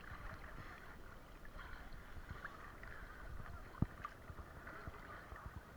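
Faint sea water sloshing and splashing, with a low wind rumble on the microphone. One sharp knock comes about four seconds in.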